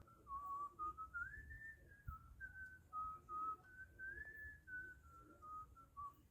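A man whistling a wandering tune softly to himself, the notes stepping up and down, with faint knocks from parts being handled.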